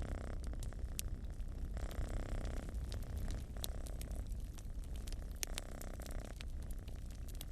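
Domestic cat purring close up, a low continuous rumble that swells about every two seconds with each breath, over the crackle and snap of a wood fire in a fireplace.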